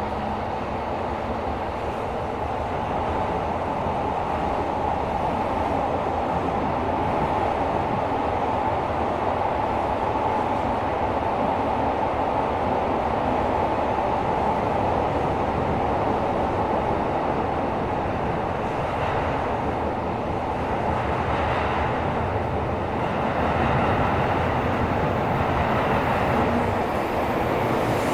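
Tokyo Metro 17000 series subway train running at speed between stations, heard inside the passenger car: a steady rolling rumble of wheels on rail, echoing in the tunnel.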